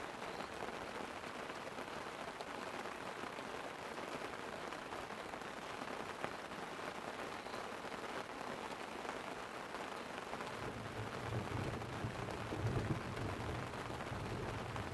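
Light rain pattering steadily on a tent, with a low rumble of distant thunder rolling in about two-thirds of the way through and swelling before it eases.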